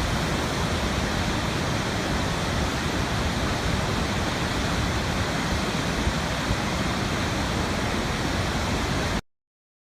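Steady rush of falling water, a waterfall or fast stream, that cuts off abruptly about nine seconds in.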